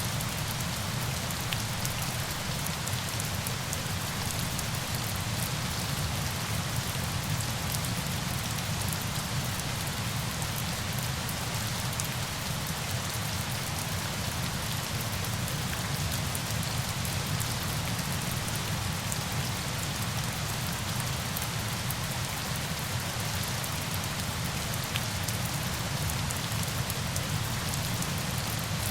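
Steady rain: an even hiss dotted with fine drop ticks, over a low rumble underneath.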